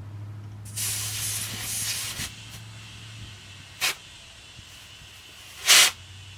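Air hose hissing at a car tire's valve as the tire is filled, a long hiss followed by two short sharp bursts, the last the loudest. A steady low hum runs underneath.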